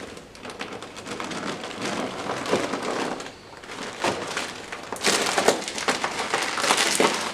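Dense crackling and crunching of a snack being handled and eaten, many small crackles running together, heaviest in the last two seconds.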